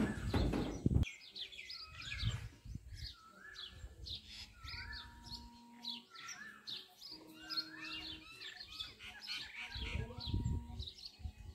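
Many small birds chirping and calling at once, short quick notes overlapping throughout, with a low rumble near the start and again near the end.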